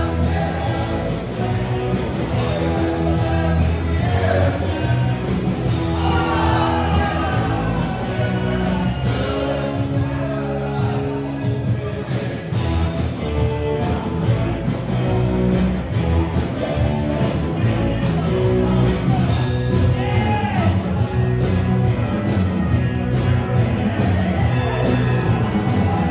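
Rock band playing live with a singer, the drums keeping a steady beat.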